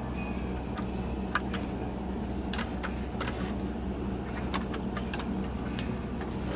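Scattered light clicks and taps as a top hat cam is pushed into its seat on a Singer sewing machine, over a steady low hum.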